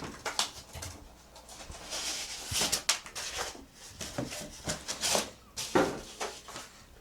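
Cardboard and packing material rustling and scraping in irregular bursts as the compressor is unpacked from its box.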